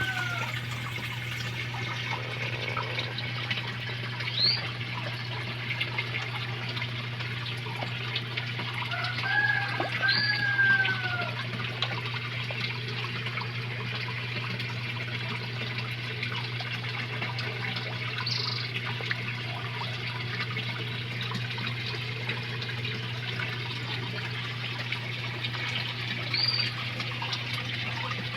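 Steady rush of water running into a koi pond, as from a filter outflow or small waterfall, over a steady low hum. A few short bird chirps break in, twice as arching calls and a few times as brief high chirps.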